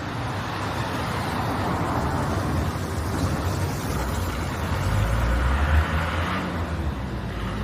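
Road traffic passing close by: a steady rush of vehicle noise, with a heavier low engine rumble building from about five seconds in as a larger vehicle goes past.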